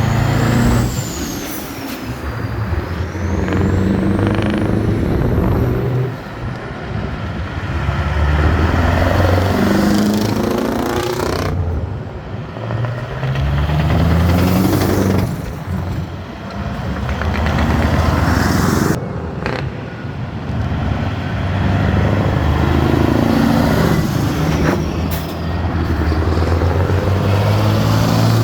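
Vintage truck engines driving past one after another, each revving up, changing gear and revving up again as it pulls away. The sound breaks off sharply twice.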